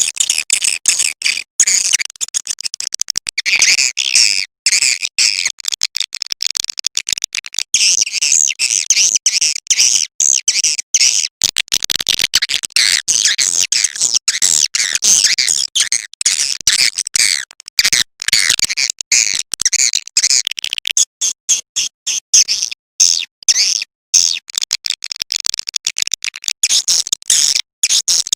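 Recorded edible-nest swiftlet calls: a dense, rapid twittering of many short high chirps, played as a lure call to draw swiftlets into a bird house.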